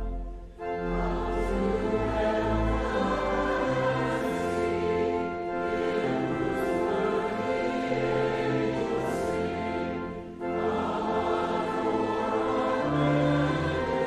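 A choir singing a hymn with instrumental accompaniment, in long held phrases that break briefly about half a second in and again about ten seconds in.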